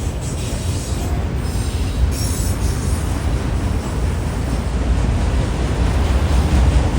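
CSX freight train rolling past, a steady low rumble of wheels on rail that grows a little louder toward the end.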